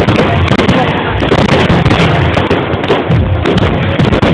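Aerial firework shells bursting in rapid, overlapping bangs and crackles, very loud.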